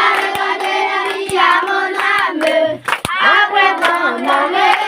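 Voices singing a French worship song together, with hand claps about once a second keeping the beat.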